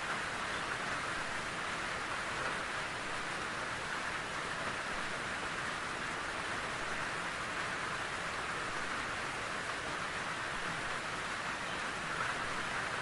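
Steady rain falling in a forest, an even hiss of rain without let-up.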